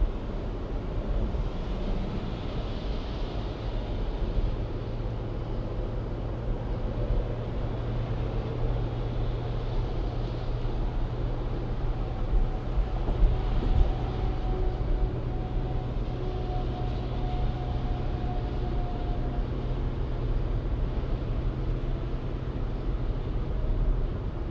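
A car driving at a steady pace: a continuous low engine and road hum, with a faint higher steady tone for several seconds around the middle.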